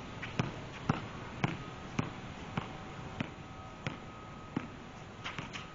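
A basketball being dribbled on a court, about two bounces a second in a steady rhythm.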